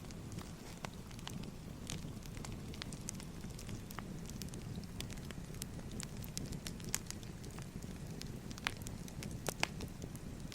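Firewood burning in a fire: a steady low rumble with irregular sharp crackles and pops throughout, a couple of louder pops near the end.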